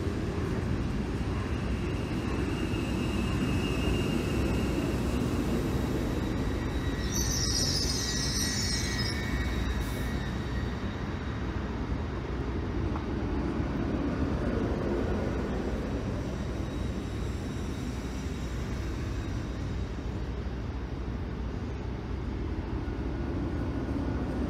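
LNER Azuma train moving slowly along the platform: a steady low rumble of wheels and running gear as the coaches pass. A brief high squeal comes about seven seconds in.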